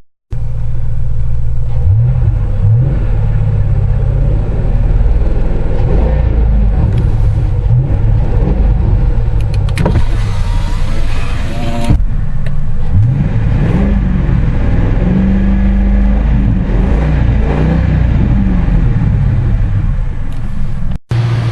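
A 1999 Lincoln Town Car's 4.6-litre V8, heard through its loud stock exhaust, idling and being revved several times, its pitch rising and falling with each rev. The sound drops out briefly just after the start and again near the end.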